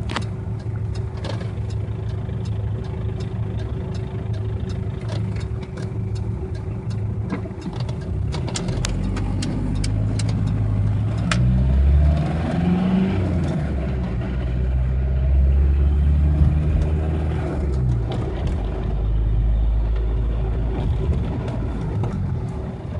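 Ford Ranger's swapped-in 4D55 2.3 turbo diesel heard from inside the cab while driving, running steadily with road noise. About halfway through the engine note rises and gets louder as it pulls harder, then settles back.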